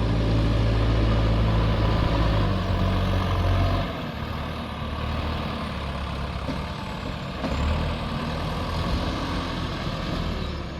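JCB 3DX backhoe loader's diesel engine running steadily, then easing to a lower, quieter note about four seconds in.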